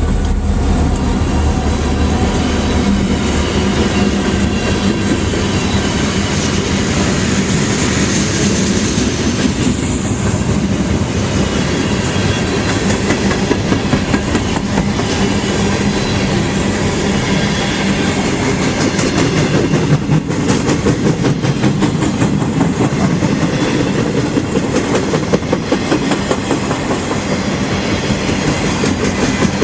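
Freight train rolling past close by, its cars' wheels clicking steadily and rapidly over the rail joints.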